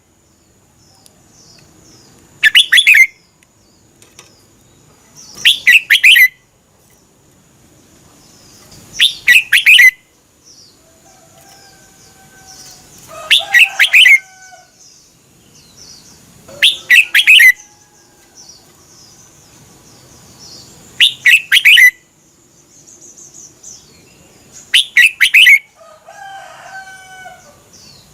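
Red-whiskered bulbul singing short, loud phrases of quick notes, seven times, one every three to four seconds.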